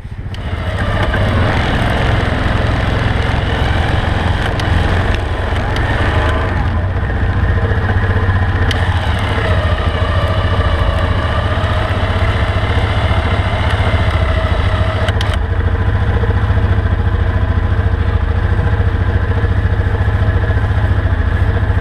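An ATV's electric winch whining steadily as it pulls the quad out of deep snow where it is stuck, over the ATV engine running. The whine stops abruptly about fifteen seconds in, leaving the engine running.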